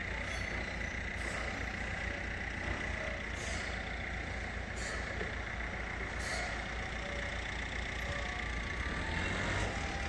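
A vehicle engine running steadily, with a constant high whine over the low rumble and a few short hisses.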